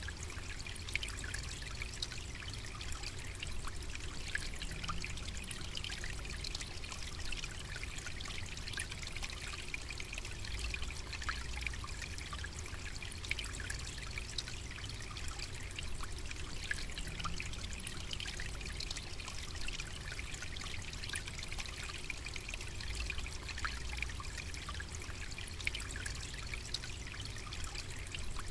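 Steady trickling water, a continuous hiss full of fine ticks, over a low rumble.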